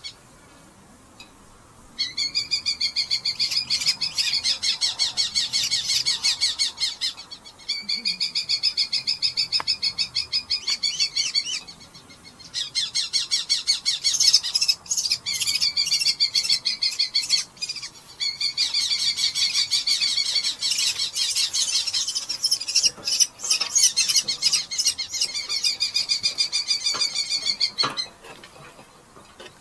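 Red-footed falcons giving long bouts of rapid, shrill chattering calls, each run lasting several seconds with short breaks between them. These are the agitated calls of falcons disturbed at the nest while people handle them.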